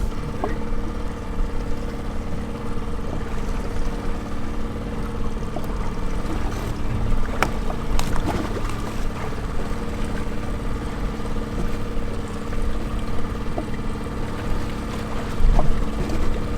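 A boat engine running steadily, a constant hum over low rumble from wind and water, with a couple of sharp clicks midway.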